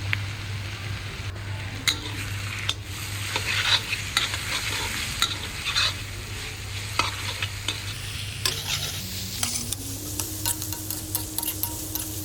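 Onion and red chili frying in oil with ginger-garlic paste in a pan, sizzling steadily while a spatula stirs them with frequent scraping clicks against the pan.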